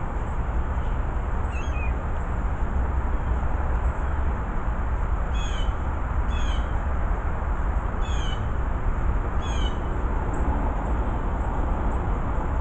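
A bird gives short, high calls: once near the start, then four times in a row about a second and a half apart in the middle. They sound over a steady low outdoor rumble.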